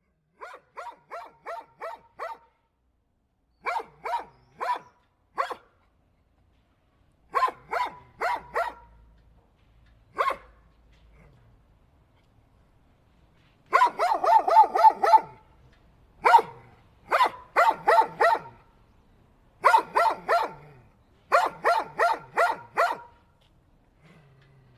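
Dog barking in bursts of several quick barks, with short silent gaps between the bursts. The barks are faster and louder about midway through.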